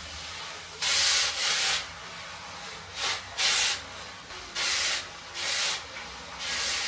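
Repeated hissy rubbing strokes on a surface, mostly in pairs, about eight in all.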